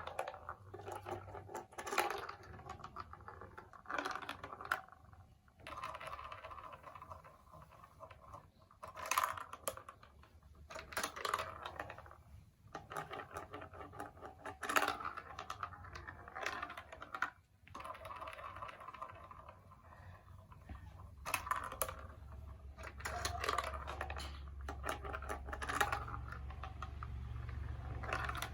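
Many small plastic clicks and clatters from a toy marble run made of building blocks, coming in irregular spells. A steady low hum sets in about two-thirds of the way through.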